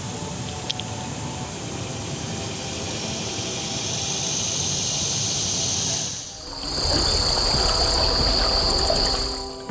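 Steady, high outdoor insect buzzing with a constant hiss. About six and a half seconds in it gets louder and shriller, with a low rumble under it, then cuts off abruptly near the end.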